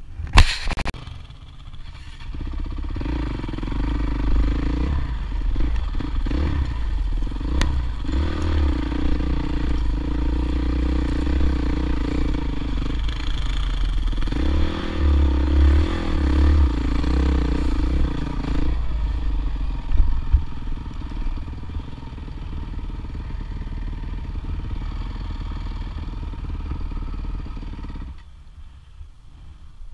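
Dirt bike engine revving and labouring up a steep off-road climb, its pitch rising and falling with the throttle. A sharp knock comes about a second in and another about twenty seconds in. The engine sound eases off over the last few seconds.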